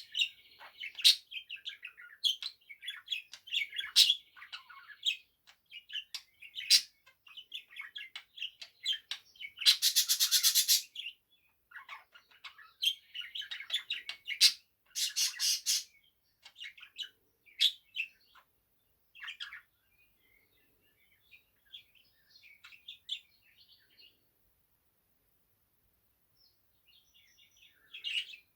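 Male budgerigar warbling and chattering, mixed with sharp clicks and two loud harsh buzzy calls about ten and fifteen seconds in. The song thins out after about nineteen seconds and pauses before a last short burst near the end.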